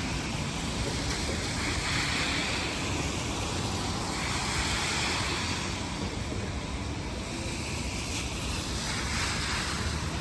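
Heavy rain hissing steadily on a city street, with the hiss of tyres on wet road swelling a few times as vehicles pass.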